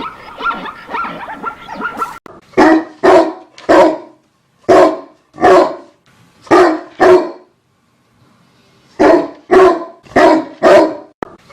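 A dog barking: about eleven loud single barks in two runs, with a pause of about two seconds between them. Before the barks, about two seconds of a busier, continuous sound that cuts off suddenly.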